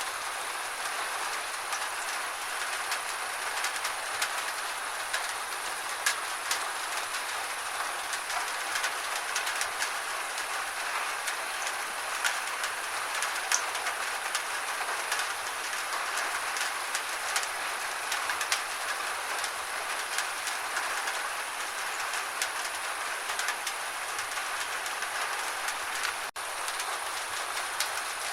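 Steady rain falling, a dense even hiss dotted with many small sharp drop ticks. It cuts out for an instant near the end.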